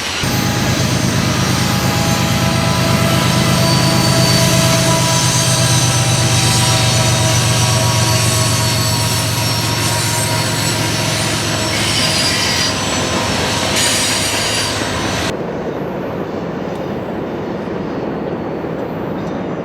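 A passing train: its wheels squeal over the rails in many high tones above a steady low drone. About 15 s in the sound changes abruptly to a quieter, duller rumble.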